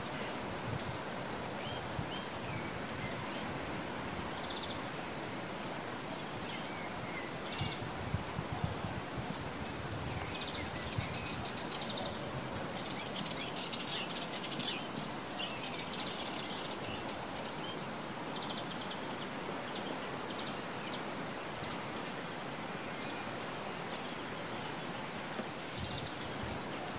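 Small birds chirping and calling now and then over a steady hiss. The calls come thickest in the middle.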